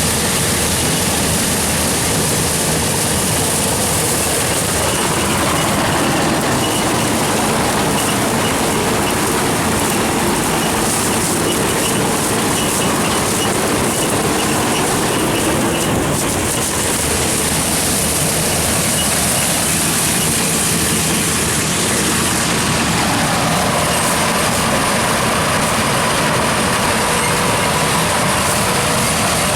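Combine harvester running with a steady, even machine drone and a constant high hiss, with no change in pace.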